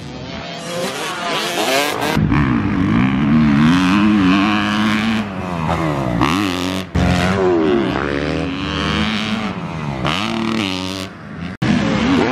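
Dirt bike engine revving up and down as it is ridden hard, its pitch rising and falling again and again. The sound breaks off and restarts abruptly about two, seven and eleven and a half seconds in.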